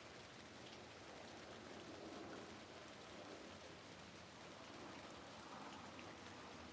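Rain falling steadily: a faint, even hiss with a few light drop ticks.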